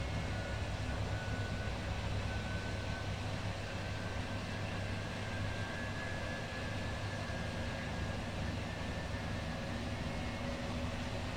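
Two Schulthess washing machines, a Spirit topLine 8120 and an eMotion 7040i, spinning at the same time. They give a steady mechanical hum, with a faint motor whine that rises slightly in pitch.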